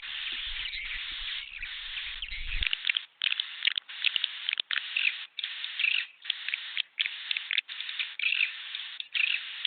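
Edible-nest swiftlets chirping and twittering, a swiftlet-house lure call. A dense, continuous chatter at first, then from about three seconds in, bursts of calls about a second long broken by short gaps.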